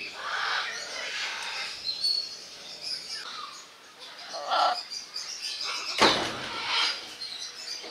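Several birds chirping and calling in short, scattered notes, with a sudden loud noise about six seconds in.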